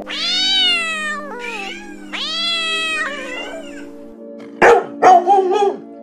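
Domestic cat meowing: two long meows, each rising then falling in pitch and followed by a shorter one, over background music with steady held notes. Near the end, three short, loud dog barks.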